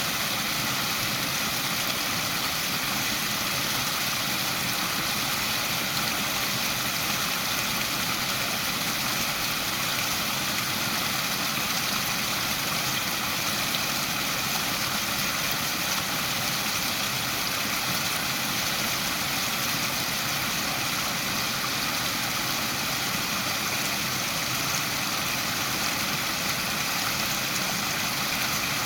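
Waterfall: a steady, unbroken rush of falling water, a hiss spread mostly through the mid and high range.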